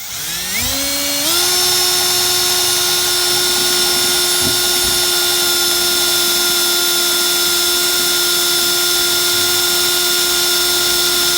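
Handheld electric power tool spinning up over about a second, its whine rising in pitch, then running at a steady full speed with a high, even whine and no sign of load.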